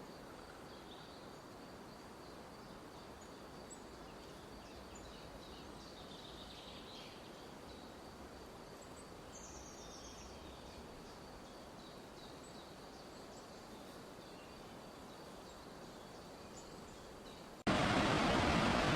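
Faint forest ambience: a soft steady hiss with scattered small bird chirps and a thin, steady high-pitched tone. Near the end the sound cuts abruptly to a much louder, steady rushing noise.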